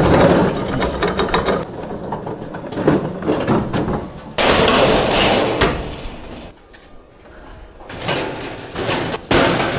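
Loud clattering, scraping and knocking of equipment being handled while a truck is unloaded, in irregular stretches of noise with sharp knocks and a short lull about two-thirds of the way through.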